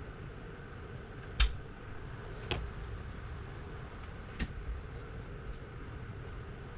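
Three sharp clicks of small tools on a Citizen 8200-calibre automatic watch movement while its winding rotor is fitted, the first the loudest, over a steady low hum.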